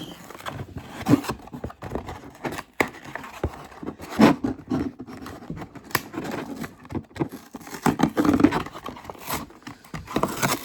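Plastic and cardboard blister packaging of a small diecast toy car being pried and torn open by hand: irregular crackles, scrapes and clicks, with a few louder snaps.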